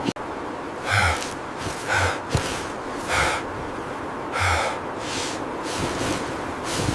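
Four loud gasping breaths, about one every second or so, over a steady hiss.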